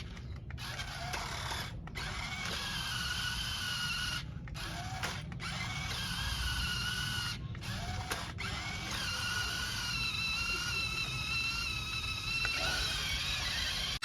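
Small electric motor and plastic gearbox of a remote-control toy tractor whining, cutting out and starting again several times.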